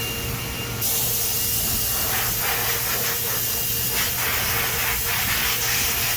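High-pressure through-spindle coolant on a DMG Mori DMC 1035V vertical machining center spraying inside the enclosure. It switches on suddenly under a second in and then holds as a loud, steady hiss with spattering over the machine's low hum.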